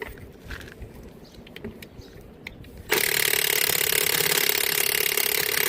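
Cordless impact wrench hammering on a trailer wheel's lug nut. It starts suddenly about three seconds in and runs for several seconds without breaking the nut loose. A few faint handling clicks come before it.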